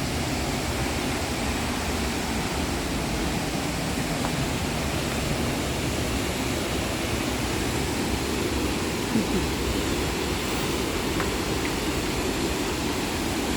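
Looking Glass Falls, a waterfall, giving a steady, even rush of falling water.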